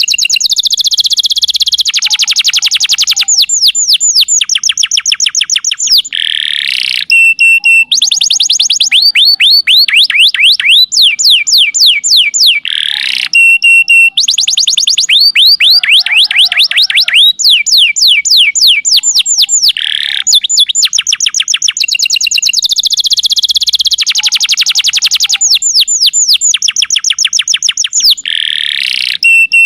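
Domestic canary singing a fast, loud trilled song of rapidly repeated high descending notes, switching to a new phrase every few seconds.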